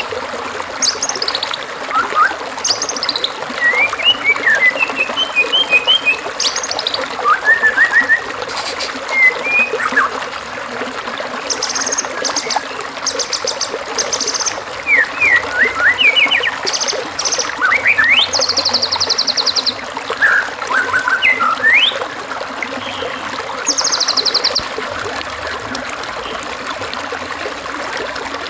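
Varied songbird phrases: short clear whistles, rising and falling chirps and several rapid buzzy trills, over a steady trickling stream.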